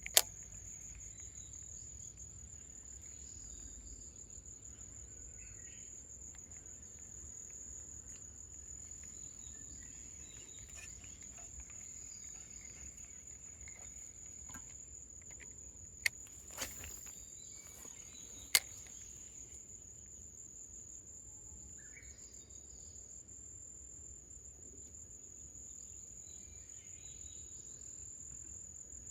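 An insect trilling without a break at one high, steady pitch, with faint scattered chirps underneath and a few sharp clicks, about 16 and 18.5 seconds in.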